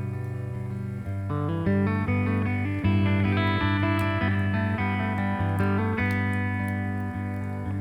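Slow desert-blues guitar playing: single picked notes that change every fraction of a second over a steady low droning bass note.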